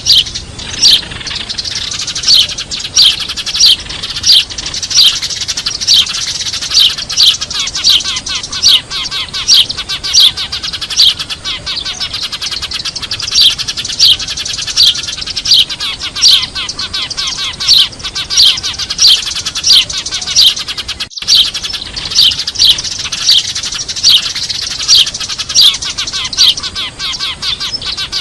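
Eurasian tree sparrows chirping busily in a dense chatter, with loud, sharp, falling chirps about twice a second, as on a sparrow-trapping lure recording. The sound cuts out for a split second once, about two-thirds of the way through.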